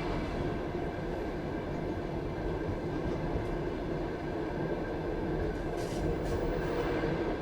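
Passenger train carriage rolling along the track: a steady rumble of wheels on rails, with a couple of short clicks about six seconds in.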